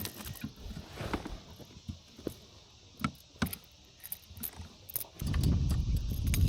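Scattered light clicks and taps of a small smallmouth bass being handled and laid against a measuring board in a kayak, then a steady low rumble from about five seconds in.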